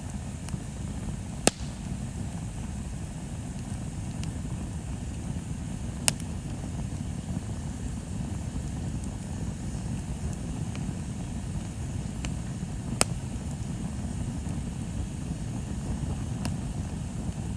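Bonfire burning with a steady low rumble and the sharp pops of burning wood: three loud cracks several seconds apart and a few fainter snaps between.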